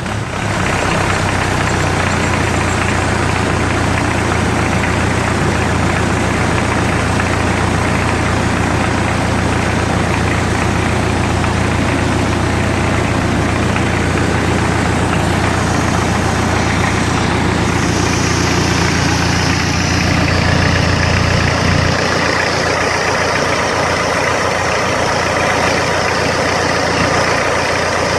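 Hyundai D4BH four-cylinder turbodiesel engine running steadily at idle. A low drone in its sound drops away about 21 seconds in while the engine keeps running.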